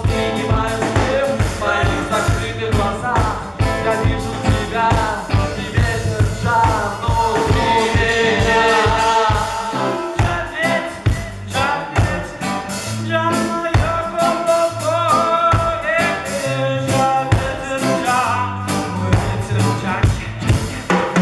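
Band music with a steady drum beat and bass under a wavering lead melody: an instrumental stretch of a rock-reggae song.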